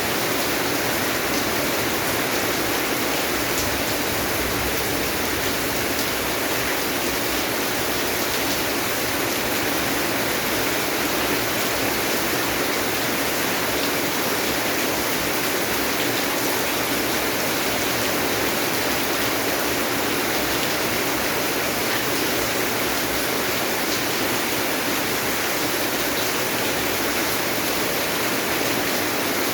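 Steady rainfall, an even unbroken hiss of rain with no let-up.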